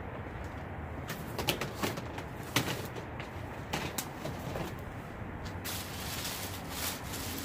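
Rummaging through a bag of electrical cords and cable equipment: irregular rustling with sharp clicks and knocks as plugs and plastic parts are handled.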